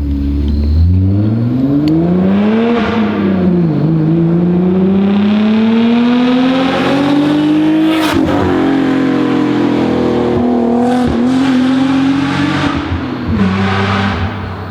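Straight-piped BMW E36 M3 inline-six accelerating hard, the engine note climbing through the revs. It drops at an upshift a little under 3 s in, climbs slowly to a sharp crack at the next shift about 8 s in, then holds high and falls away near the end as the throttle eases.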